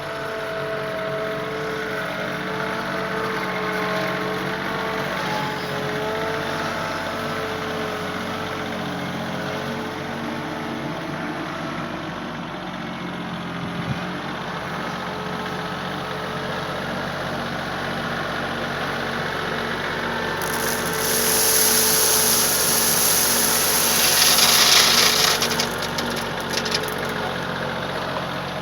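An engine running steadily at idle, with a loud hissing rush for a few seconds near the end that breaks off into short bursts.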